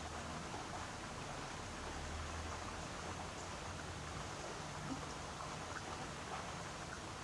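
Steady rain falling, with scattered drops ticking now and then over a faint low hum.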